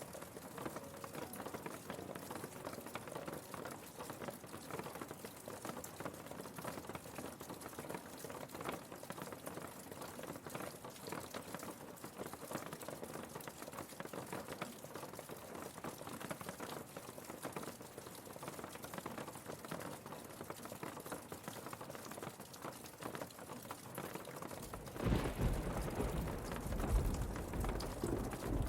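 Steady rainfall, a fine crackling patter. About 25 seconds in, a louder low rumble comes in and carries on to the end.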